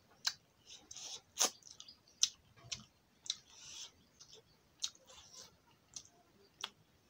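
Close-up eating sounds: wet mouth clicks and lip smacks of chewing, irregular and sharp, about one or two a second, with brief soft squishing as fingers mix rice and fish.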